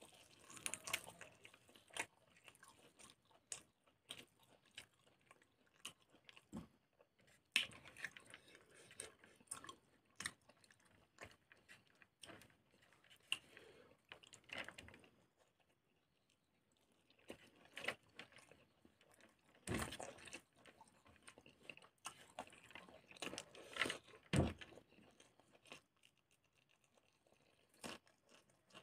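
Close-up chewing of a mouthful of pork intestine and rice, with many short, sharp wet clicks and smacks from the mouth and a brief lull partway through.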